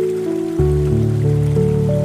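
Soft ambient music of slow, sustained overlapping notes, with a deep bass note coming in about half a second in, over faint trickling water from a bamboo fountain.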